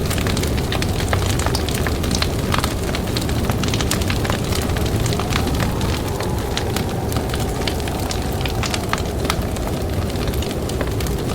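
Campfire crackling with frequent sharp pops over a steady low rush of wind. A faint wind howl swells and fades about halfway through.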